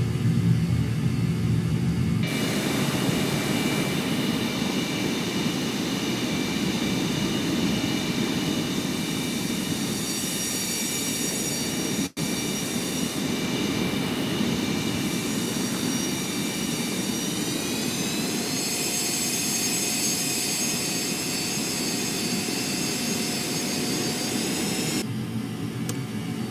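Jet aircraft engines running with a steady rumble and a high turbine whine; about eighteen seconds in, the whine rises in pitch as the engines spool up. The sound changes abruptly twice, and drops out for an instant near the middle.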